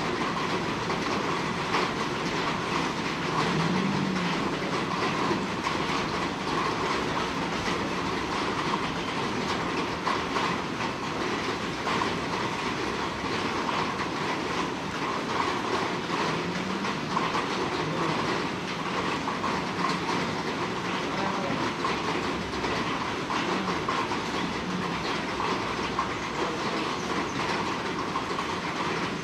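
Heavy monsoon rain falling steadily, a dense hiss of countless drop impacts.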